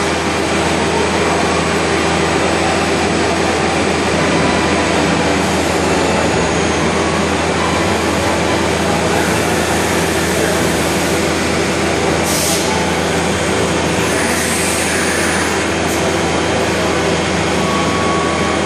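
Routech Chronos NT five-axis CNC router running, a steady loud machining noise with several constant tones. A short hiss comes about twelve seconds in and another around fourteen to fifteen seconds.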